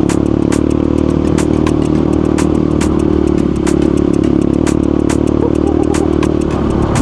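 Motorcycle engine running at a steady cruising pitch while riding, with a regular series of sharp ticks, about three a second.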